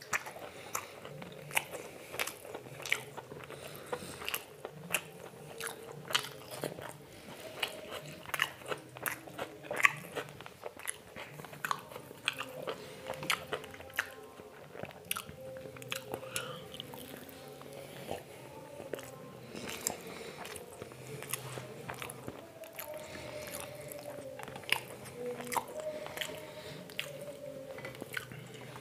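A person chewing and biting food, with many short, irregular crunches and mouth clicks. The loudest crunch comes about a third of the way in.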